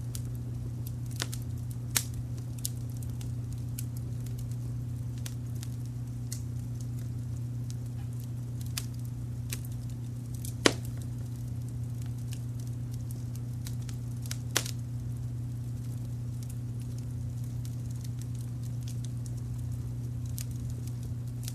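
Fire crackling, with scattered sharp pops (the loudest about halfway through) over a steady low rumble of brown noise.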